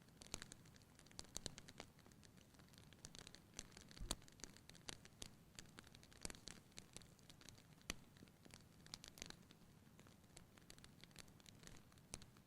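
Wood fire burning in a fireplace, crackling with irregular sharp pops over a faint low hiss; the loudest pop comes about four seconds in.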